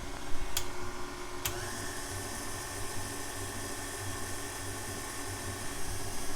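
KitchenAid stand mixer running, its whisk attachment beating whipped topping into vanilla pudding with a steady motor whine. There are two short clicks, about half a second and a second and a half in, and the tone shifts after the second.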